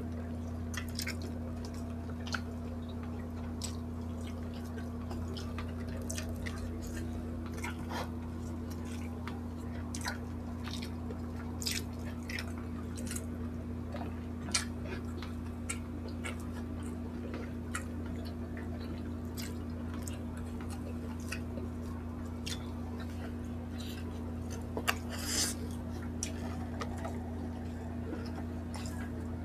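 Close-miked chewing: wet mouth sounds and many short lip-smacking clicks from people eating grilled pork belly and rice by hand, with a slightly louder smack near the end. A steady low hum runs underneath.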